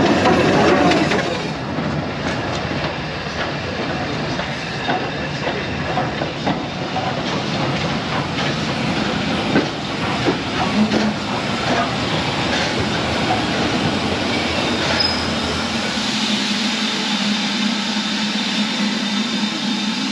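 Heritage railway passenger train running on the line, its wheels clicking over the rail joints with some squeal. About three-quarters of the way through, the low rumble falls away, leaving a steady hum.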